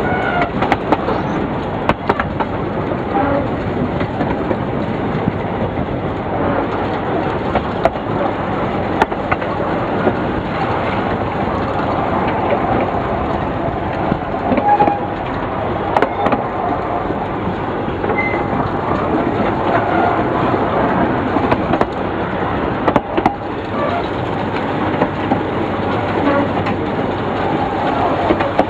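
Narrow-gauge passenger train running, heard from an open coach window: a steady rumble and rattle of the coach with wheels clacking over rail joints. The train is being hauled up a grade by two Lxd2 'Rumun' diesel locomotives.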